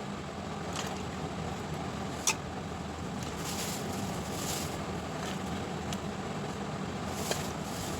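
Metal spoon tapping and scraping against a cooking pot as cooked rice is spread in a layer for biryani: a few light clicks and a brief soft scrape, over a steady background hum.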